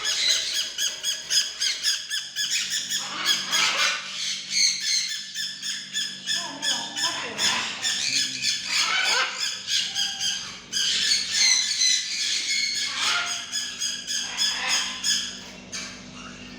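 A tame macaw squawking over and over, a fast run of short harsh calls that dies away near the end.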